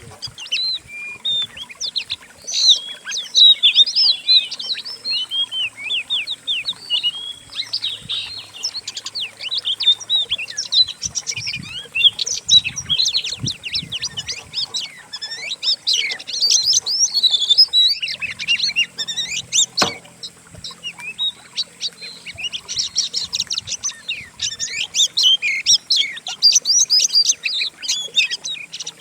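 Mixed recording of several songbirds singing at once: dense, fast runs of chirps and whistled phrases with no pause, a bird-song tutor track (masteran) used to teach oriental magpie-robins to copy. A faint steady high hiss runs under it, and a single sharp click comes near the two-thirds mark.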